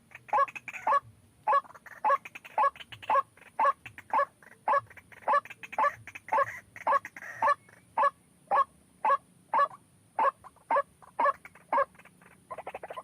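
White-breasted waterhen calling, a short loud note repeated about twice a second, which stops shortly before the end. Just before the end a faster, continuous pulsing chatter starts.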